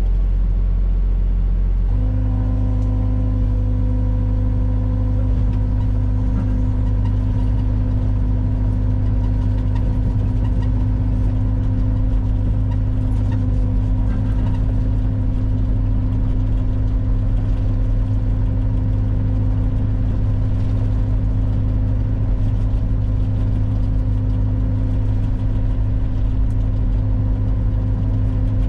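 Diesel-type engine running steadily at constant speed, a continuous even drone with a slight change in its note about two seconds in.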